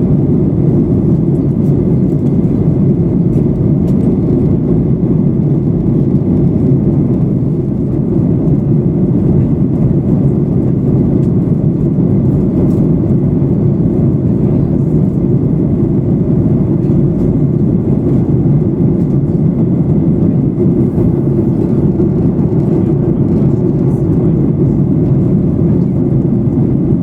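Steady cabin noise inside a Boeing 737-800 in flight: the even, low rush of the engines and airflow, with no change in level.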